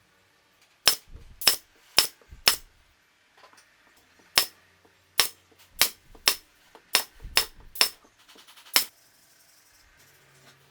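Hammer striking wood: about a dozen sharp taps, four in quick succession about a second in, then eight more, less evenly spaced.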